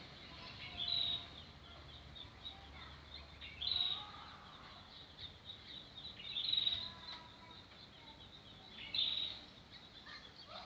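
Wild birds chirping, with one short high call standing out four times, every two to three seconds, over faint outdoor background noise.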